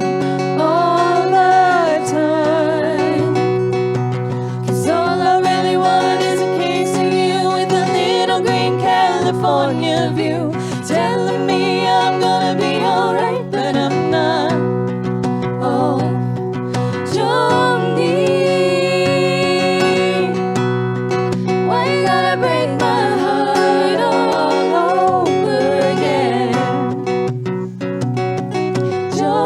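Acoustic guitar accompanying voices singing a slow, gentle song in close harmony.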